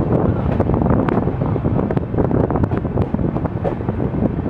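Wind buffeting the microphone over the steady running noise of a moving passenger train, with frequent short clicks and rattles.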